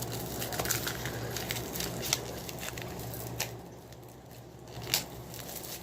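Plastic shrink-wrap being torn and peeled off DVD box sets: scattered crinkling and crackling with a few sharp clicks, the sharpest near the end.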